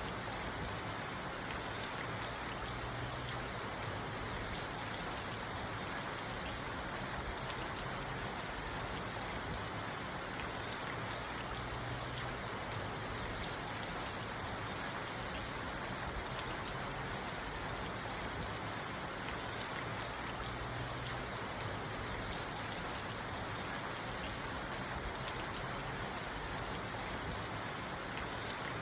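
Steady rain falling on a parked car, heard from inside the cabin: an even hiss with scattered drop ticks.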